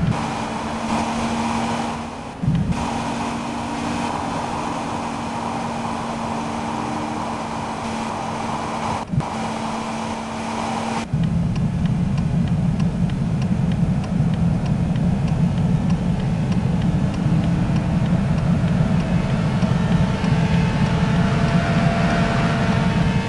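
Steady vehicle running noise: a low hum with road-like rumble, changing abruptly to a heavier rumble about eleven seconds in.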